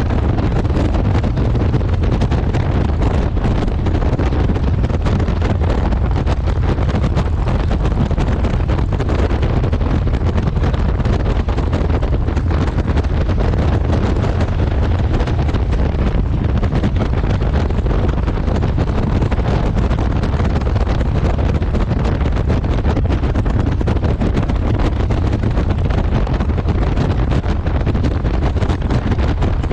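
Steady wind buffeting the microphone of a motorcycle riding at speed, mixed with the bike's engine and road noise as one even, low rush.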